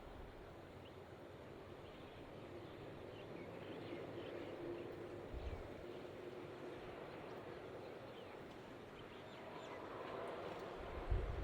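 Faint, steady rumble of distant jet aircraft with birds chirping over it, and two short low thumps of wind on the microphone. The rumble grows louder near the end.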